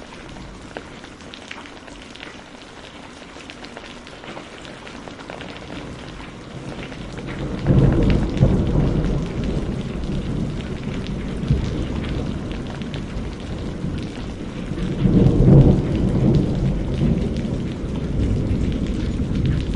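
Steady rain with a low rumble of thunder rolling in about eight seconds in and a second, louder roll about fifteen seconds in. Fine crackles from a wood fire are scattered through the rain.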